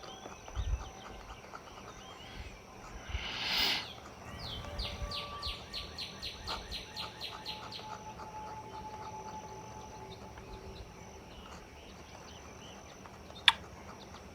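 Fine-tip technical pen scratching on drawing paper: one longer stroke, then a quick, even run of short flicked strokes, about five or six a second, as pine needles are drawn. A soft knock comes early and a single sharp tick near the end.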